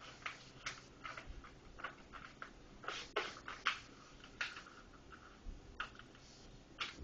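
A sheet of paper being handled, folded and creased, giving irregular crinkling rustles, busiest about three to four seconds in.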